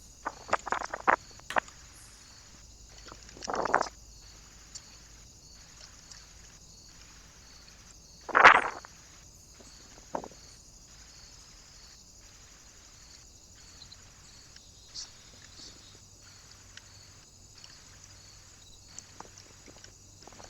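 Scattered short scratches, taps and rustles from animals moving and feeding at a bird feeder. The loudest rustle comes about eight and a half seconds in. A steady camera hiss runs underneath.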